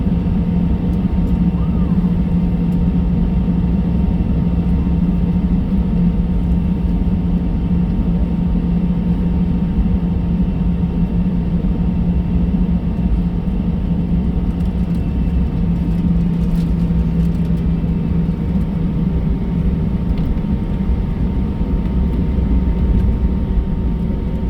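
Cabin noise of an Airbus A320 taxiing with its jet engines at idle: a steady low rumble and drone with a faint whine over it, holding level throughout.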